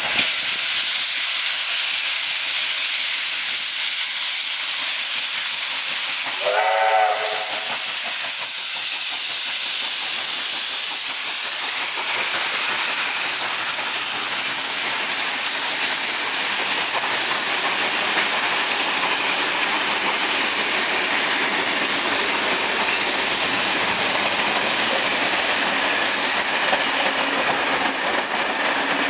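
NSWGR C36-class steam locomotive 3642 passing with a steady hiss of steam and the rumble of its train, giving one short whistle blast about seven seconds in. The train noise swells from about twelve seconds on as the carriages roll by.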